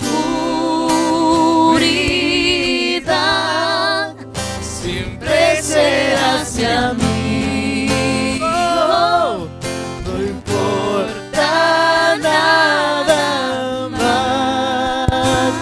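Live band music: acoustic guitar accompaniment under a held, wavering melody line, the introduction of a ballad.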